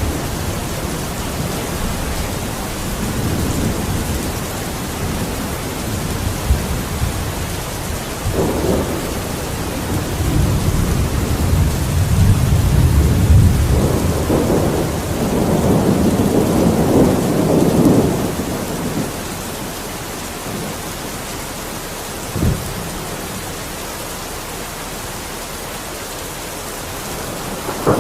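Steady rain with rolling thunder. A long low rumble builds from about ten seconds in, is loudest around fifteen to eighteen seconds, then fades. A short, sharp thunder crack follows a few seconds later.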